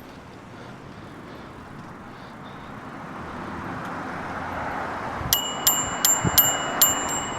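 Bicycle bell rung about six times in quick succession in the last two seconds, over steady wind and rolling noise from the moving bike.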